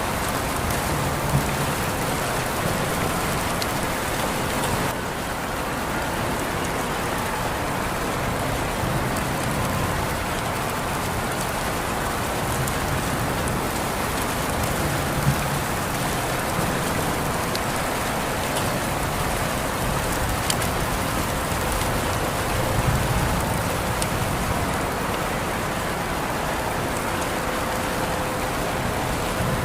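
Steady rain falling, with a few sharper, louder drop hits now and then.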